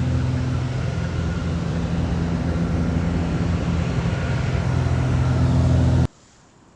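Steady drone of a Cessna 182's piston engine and propeller heard inside the cabin, a low hum under a broad hiss. It cuts off abruptly about six seconds in, leaving a faint hiss.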